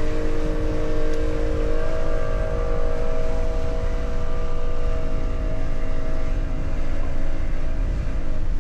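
A passenger ship's steady low rumble with a sustained droning tone over it. The tone shifts slightly about two seconds in and fades out near the end.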